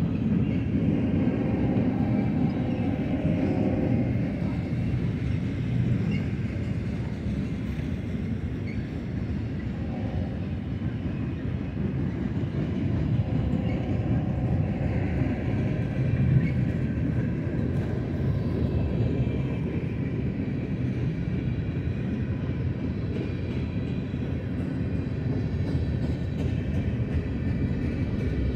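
Freight cars of a long manifest train rolling past: a steady rumble of steel wheels on the rails, with faint high tones coming and going.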